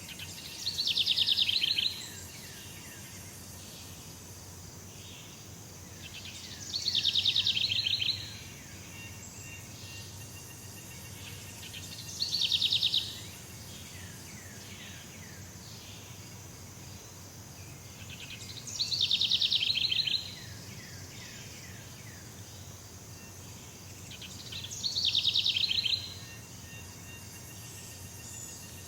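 Tropical forest ambience: an animal gives a rapid trilling call, each about a second and a half long, five times at roughly six-second intervals, over a steady high hum of insects.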